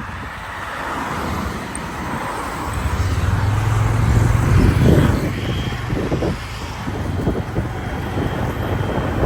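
Motorbike running on the road, with wind buffeting the microphone and a low engine note that strengthens about three seconds in.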